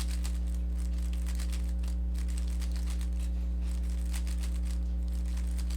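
Rubik's cube being turned by hand through an OLL algorithm: a quick, irregular run of light plastic clicks and scrapes as the layers turn, over a steady electrical hum.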